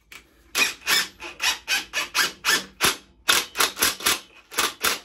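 Socket ratchet clicking in quick back-and-forth strokes, about four a second, as a bolt is tightened.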